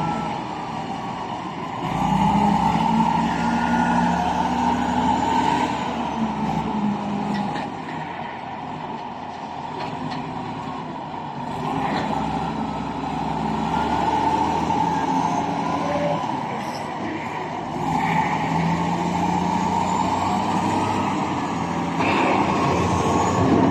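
Heavy truck engines running at a worksite during loading, rising and falling in revs, louder for a few seconds near the start and again in the last few seconds.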